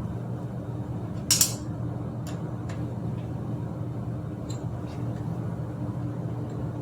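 Light metallic clinks and clicks of tools and bike parts being handled, one sharp clink about a second in and a few fainter ones after, over a steady low hum.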